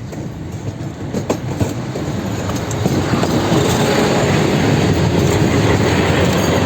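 A train drawing near and running past close by, growing louder over the first three seconds and then holding steady, with the rumble and clatter of its wheels on the rails.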